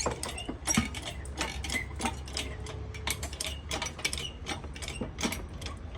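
Shop engine hoist being jacked up to take the weight of a car engine: a run of quick metallic clicks and ratcheting at about three to five a second, over a low steady hum.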